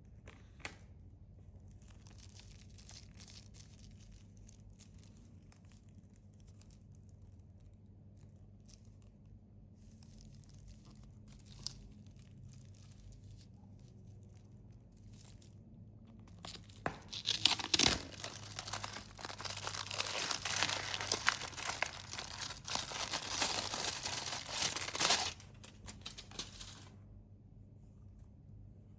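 Plastic snack wrapper being handled with soft crinkles and a couple of sharp clicks, then torn open and crinkled loudly for several seconds past the middle.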